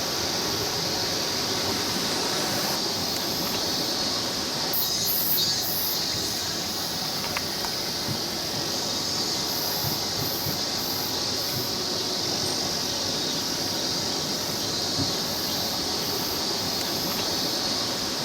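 Steady rushing of a mountain stream, an even hiss of water with no break.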